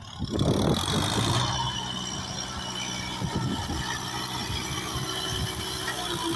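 Kubota tractor's diesel engine running steadily, with a louder rush of noise swelling in about the first second and then settling.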